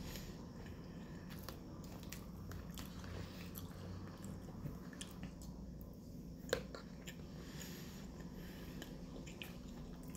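A person chewing and biting a mouthful of rice, beans and corn, mouth sounds close to the microphone, over a steady low hum. A few light clicks of a metal fork against the plastic tub, the sharpest about six and a half seconds in.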